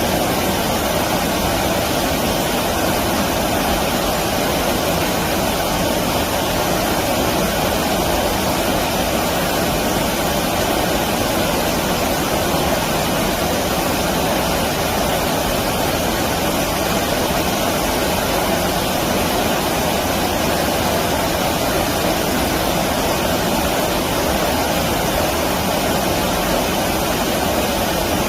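Stream water rushing steadily: an even, unbroken noise with no separate splashes or calls.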